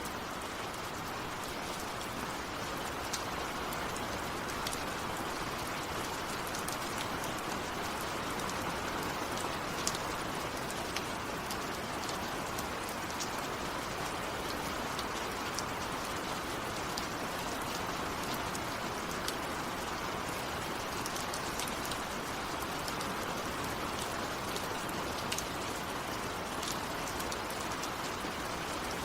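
Steady heavy rain falling, an even hiss with the sharp ticks of individual drops striking a surface scattered through it.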